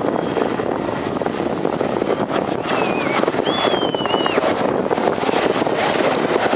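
Westland Lynx AH7 helicopter, its twin turboshaft engines and rotor giving a steady rushing noise, with wind buffeting the microphone. A thin, wavering whistle-like call sounds briefly about three to four seconds in.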